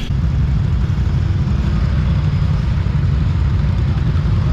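A vehicle engine running steadily, heard close up as a loud, fluttering low rumble.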